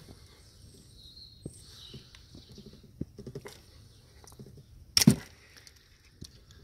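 Small clicks and scrapes of hands working a tight plastic connector out of clear fuel tubing, with one sharp loud knock about five seconds in.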